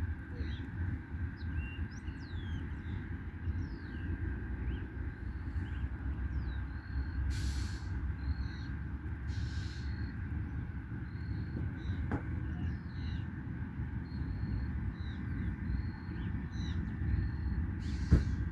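Many small birds chirping and calling over a steady low rumble, with a few short hissing bursts.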